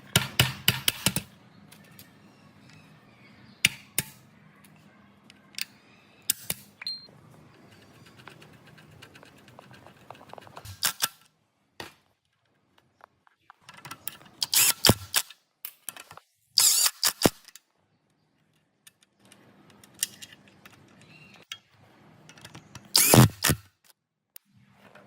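Workshop clatter from hand tools on metal: short bursts of sharp clicks and knocks, with dead silence between some of them. The loudest bursts come about a second in and again near the end.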